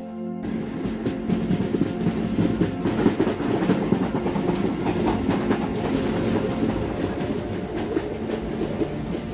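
Train running along the track, its wheels clattering on the rails; the clatter cuts in abruptly about half a second in.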